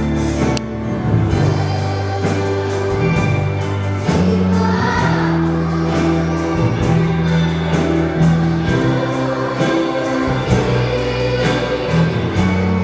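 Sunday-school children's choir singing a gospel hymn over instrumental accompaniment with sustained bass notes and a steady beat.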